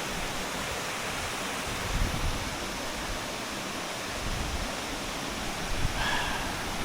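Steady rush of water from a creek's cascades and falls, with a few low bumps and a short faint high tone about six seconds in.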